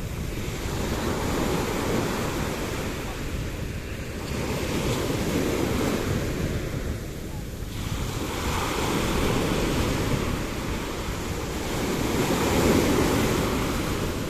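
Sea waves washing onto the shore, the surf noise swelling and easing about every three to four seconds, with wind rumbling on the microphone.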